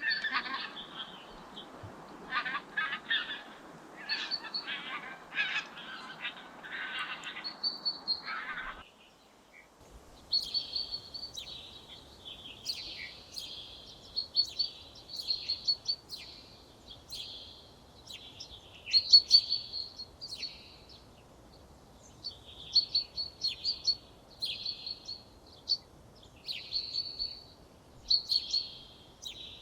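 Wild birds singing: over roughly the first nine seconds, calls over a steady hiss that cut off suddenly; then, after a brief gap, songbirds singing repeated quick, high phrases.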